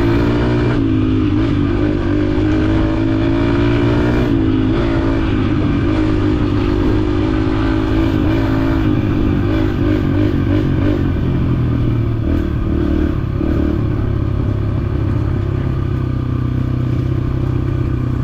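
Yamaha dirt bike engine running under way. The revs climb for a few seconds, drop sharply about four seconds in, then hold steadier before turning rougher in the second half.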